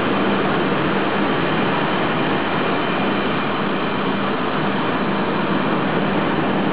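Steady running noise of a passenger train on the rails, an even rush with a faint low hum and no change in level.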